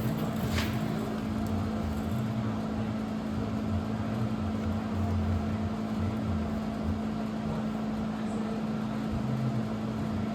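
Steady mechanical hum with an uneven low rumble under it, and a single short click about half a second in.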